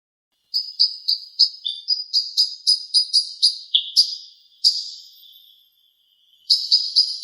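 A fast, even series of short, high-pitched chirping notes, about three a second, fading out about five seconds in and starting again near the end.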